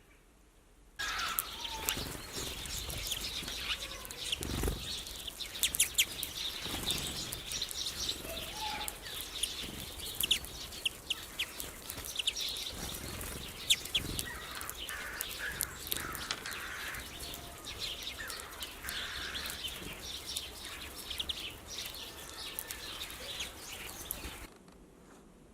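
Greenfinches and other small birds at a seed feeder: short chirps over many sharp clicks and flutters of wings. The sound starts abruptly about a second in and cuts off near the end.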